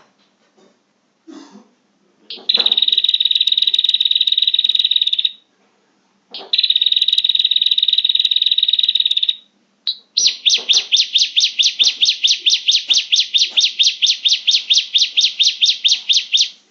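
Prenjak (prinia) calls played as a trapping lure: two loud buzzy trills of about three seconds each, then a six-second run of rapid sharp chattering notes, about six a second.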